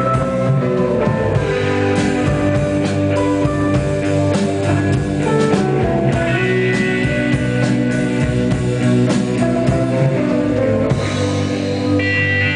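Rock band playing live, electric guitar over a drum kit. The drum hits thin out about eleven seconds in, leaving the guitar ringing.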